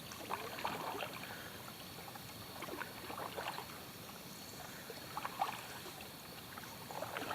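Quiet paddling on a river: a paddle dipping into the water with small splashes and drips, coming in a few loose clusters.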